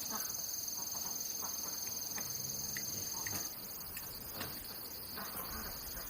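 Insects trilling in a steady, high-pitched, finely pulsing chorus that drops away sharply about halfway through, with scattered faint clicks.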